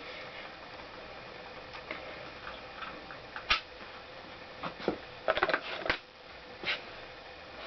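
Scattered metallic clicks and clinks of hand tools against parts of a Honda CX500 engine being dismantled: a single click, then a quick cluster of clicks a little after the middle, then one more.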